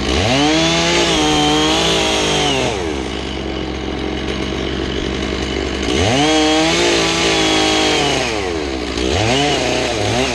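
Two-stroke chainsaw idling, revved up to full speed and held for a couple of seconds, twice, then given a short blip near the end.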